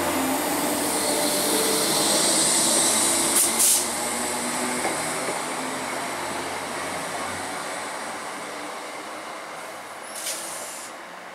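Electric multiple unit pulling away and running off into the distance, a steady rush of wheels and motors that fades as it goes. Two sharp clunks come about three and a half seconds in and another near the end.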